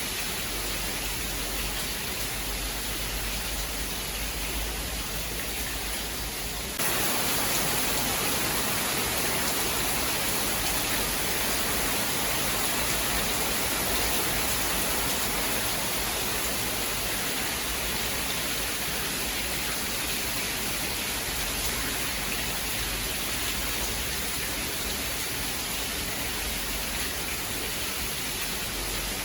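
Steady heavy rain, an even hiss. About seven seconds in it jumps abruptly louder and brighter, then holds steady.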